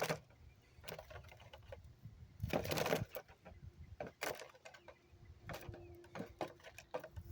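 Scattered light clicks and taps, with a brief rustling scuffle about two and a half seconds in.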